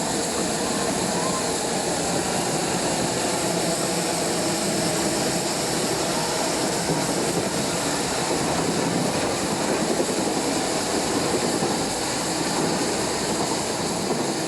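A Snowdon Mountain Railway rack train working, giving a steady, even running noise with no distinct beat.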